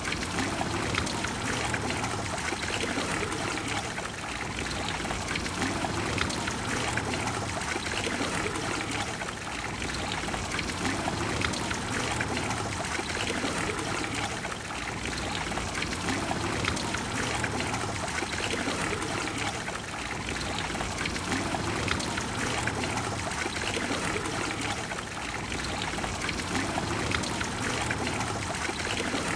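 Water of the Trevi Fountain flowing and splashing steadily into its basin, easing slightly in loudness every five seconds or so.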